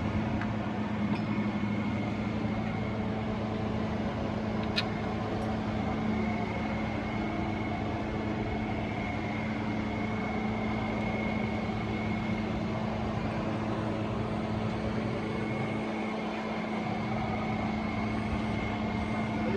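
Steady mechanical hum, with a single sharp click about five seconds in.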